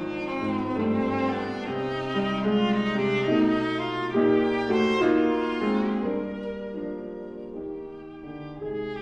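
Viola playing sustained, singing melodic notes with piano accompaniment; the music grows softer toward the end and then swells again.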